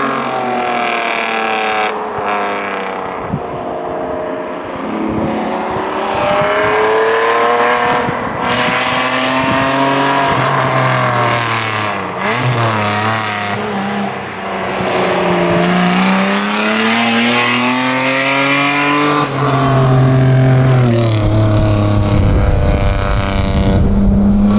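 BMW 325i straight-six engine at racing revs, its pitch climbing and falling several times as the car accelerates, shifts and slows. It is loudest near the end.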